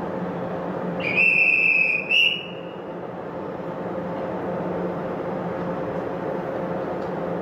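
Train horn sounding two high-pitched blasts, a long one about a second in followed at once by a short one, over a steady rumble of the railway line.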